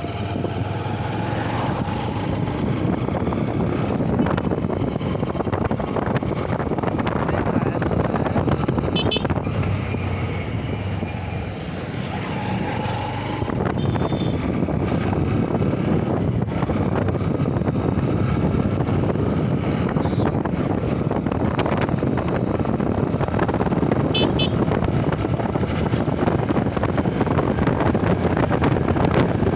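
Honda Shine SP 125's single-cylinder engine running on the move, under steady wind and road noise.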